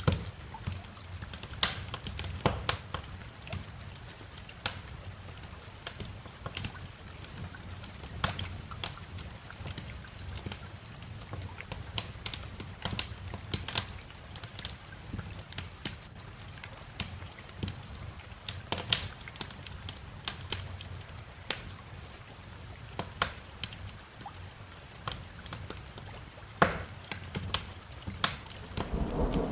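Wood fire in a fireplace crackling, with irregular sharp pops and snaps, some much louder than others, over a low steady rumble.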